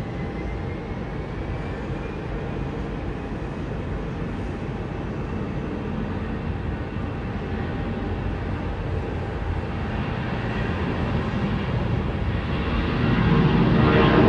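Jet airliner engines, the sound building steadily as the aircraft draws closer and loudest near the end, with a thin whine rising in pitch near the start.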